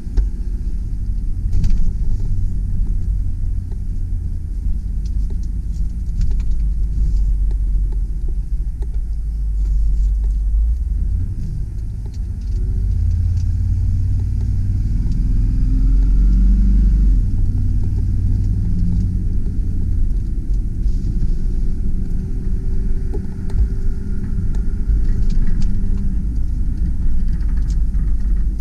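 2001 GMC Sierra 3500 HD bucket truck driving on the road, with a steady low engine and road rumble. The rumble eases about eleven seconds in, then rises again as the truck picks up speed.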